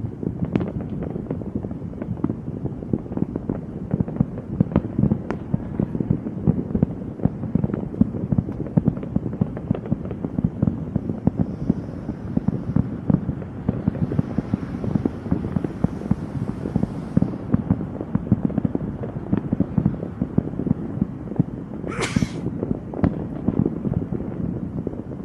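Fireworks going off in a dense, continuous barrage of crackling bangs and pops. A short, sharp hiss cuts through near the end.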